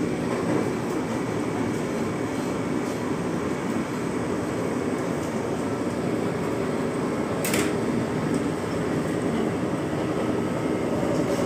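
Steady running noise inside a moving Vande Bharat Express coach: the rumble of the train on the track mixed with the air-conditioning, with one short click a little past the middle and a steady hum coming in near the end.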